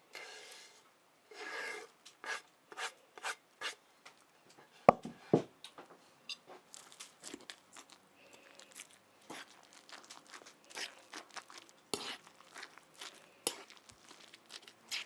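Kitchen handling sounds from mixing potato pancake batter: rustling and scraping strokes with scattered light clicks, and two sharp knocks about five seconds in.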